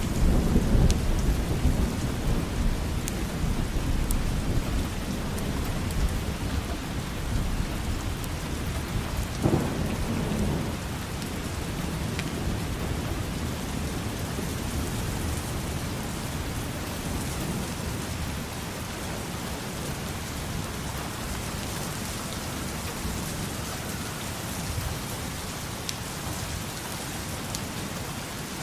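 Steady rain falling on surfaces, with rolls of thunder: a loud low rumble at the start that dies away over several seconds, and a shorter roll about ten seconds in.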